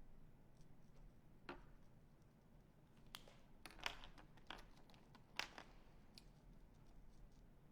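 Near-silent room with about half a dozen light clicks and taps from paint markers being handled on a table; the sharpest come about four and five and a half seconds in.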